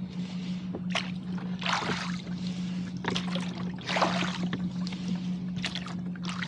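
Water splashing and sloshing around a rowboat being rowed through a steep wind chop, in irregular surges about every second, over a steady low hum.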